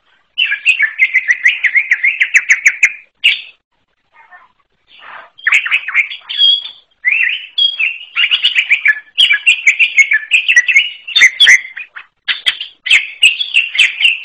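Wild green leafbird (cucak ijo) singing a fast, chattering song of rapid repeated notes in long phrases, with a brief break about four seconds in.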